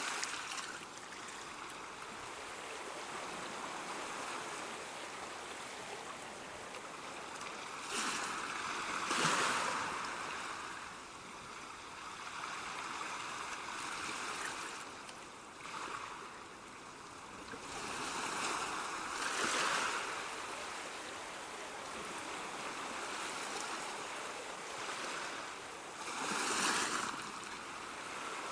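Ocean waves breaking and washing in over a steady hiss of surf, swelling every several seconds, with the biggest surges about a third of the way in and near the end.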